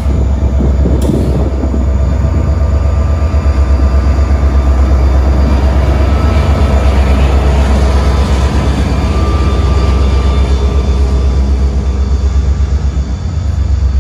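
A diesel freight locomotive engine running: a loud, steady low rumble with a fast pulse to it and a faint steady whine above it.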